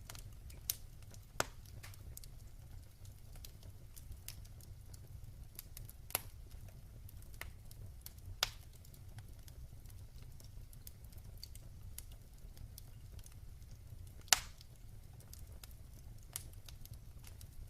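Wood fire crackling in a fireplace: scattered sharp pops and snaps over a low steady rumble, the loudest pop about fourteen seconds in.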